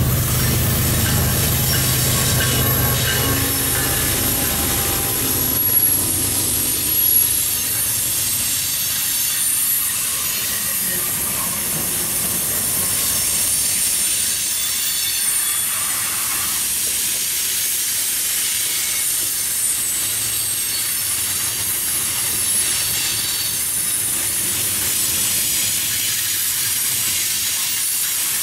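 CSX freight train passing close by. Diesel locomotives run past for the first few seconds, then a long string of open hopper cars rolls by with a steady rush of wheel-on-rail noise and high, thin wheel squeal.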